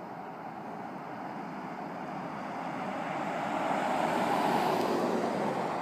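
A car passing by, its rushing road noise getting louder to a peak about four and a half seconds in and then fading, with no clear engine note.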